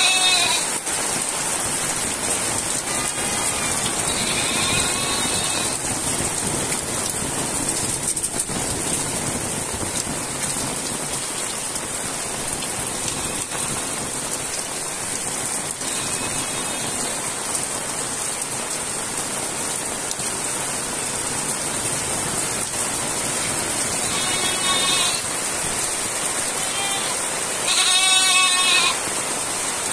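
Heavy rain falling steadily on roofs, leaves and the ground. An animal bleats several times through it, loudest near the end.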